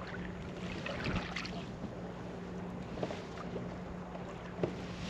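Pedal kayak moving on salt water: small splashes and lapping at the hull over a steady low hum, with some wind on the microphone.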